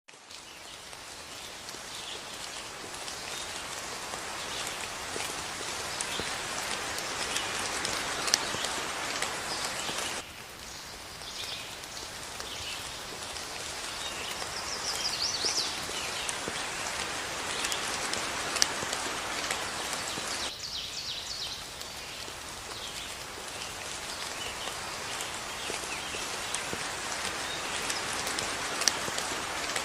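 Steady rain falling, with birds chirping faintly over it. The rain's sound changes abruptly twice, about a third and two-thirds of the way through.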